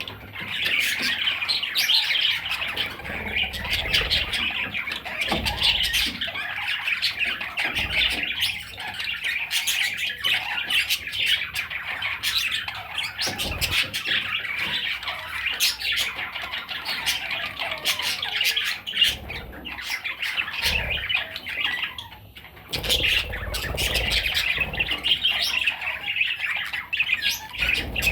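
Budgerigar chattering and warbling: a continuous run of scratchy chirps, clicks and squawks, with a short lull about twenty-two seconds in.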